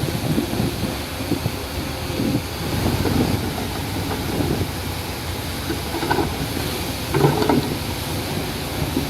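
Heavy diesel construction machinery running, with a few louder surges about six and seven seconds in.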